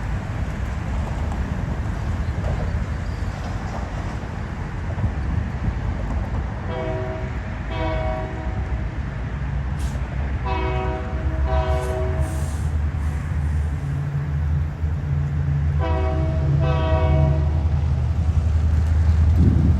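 Freight locomotive air horn sounding six short blasts in three pairs, over the steady low rumble of the diesel locomotive, which grows louder in the second half.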